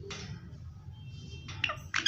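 Indian ringneck parakeet calling: a brief rasp at the start, then short, falling squawk-like calls near the end, over a low steady hum.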